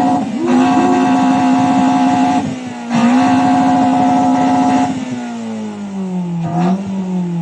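Car engine revved hard and held at a steady high rpm for about five seconds, with two brief dips in pitch. Then the revs fall back, with one short blip, near the end.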